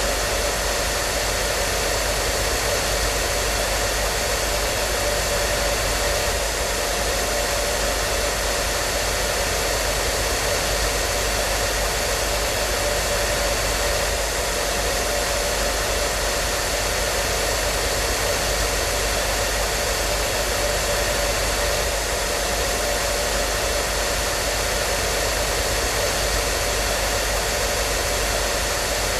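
Hair dryer running steadily: an even rushing of air with a faint motor whine and low hum, unchanging throughout.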